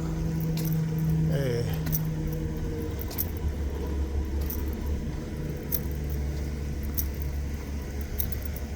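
Steady low hum of an idling vehicle engine, with scattered jangling clicks.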